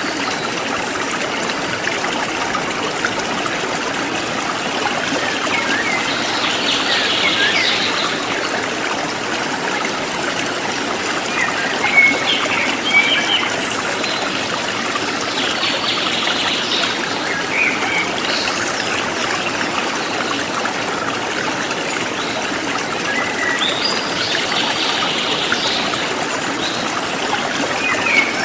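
Forest stream trickling and babbling steadily, with small birds chirping in short bursts every few seconds over the water.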